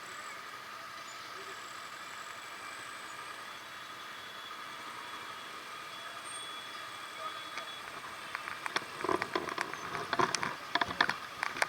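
Road traffic running steadily, with a constant hum, joined about three-quarters of the way through by a run of irregular clicks and knocks.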